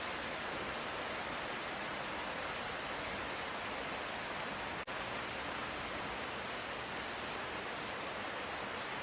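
Steady rain falling as an even hiss. Near the middle it drops out for a split second.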